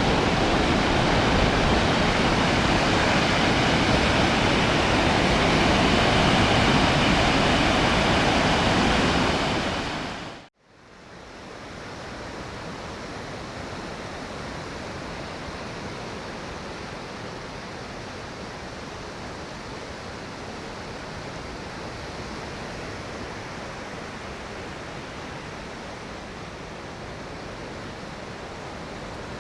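Gulf of Mexico surf and wind at the shoreline, a steady rush of noise. About ten seconds in it fades out almost to nothing, then comes back quieter and stays steady.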